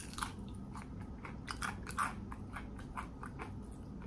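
A person chewing crispy battered fried food close to the microphone: a string of irregular crunches, with a few louder bites.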